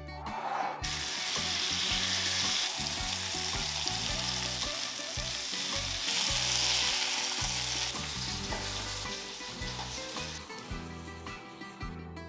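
Marinated chicken pieces sizzling as they fry in oil in a pan. The sizzle starts about a second in, jumps in level at cuts a few times, and fades out near the end.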